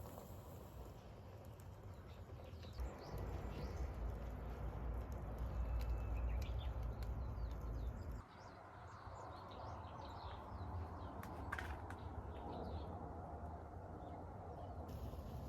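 Small birds chirping repeatedly, with a few faint clicks. A low rumble runs under the chirps from about three seconds in and stops abruptly about halfway through.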